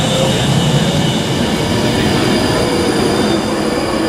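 Class 390 Pendolino electric train moving through the station: a steady rumble of wheels on rail with several steady high electrical whines over it.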